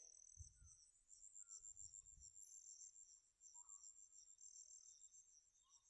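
Near silence, with faint, steady, high-pitched cricket chirping in the background.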